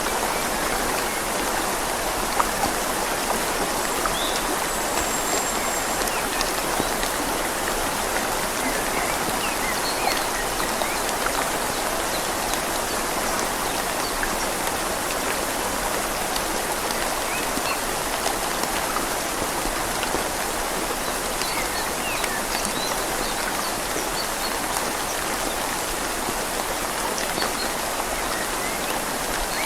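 Steady rain falling on leaves together with a river flowing, an even, unbroken wash of water noise.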